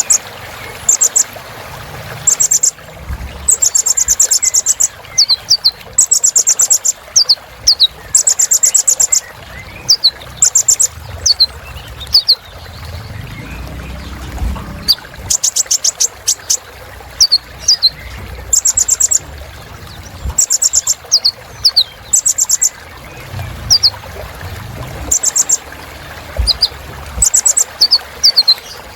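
Kolibri ninja sunbird singing: fast, very high buzzy trills of about half a second to a second, repeated every second or two and alternating with short downward-slurred chips.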